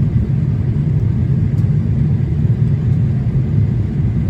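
Steady low rumble of a Boeing 787-8 Dreamliner in flight on approach, heard from inside the cabin: engine and airflow noise.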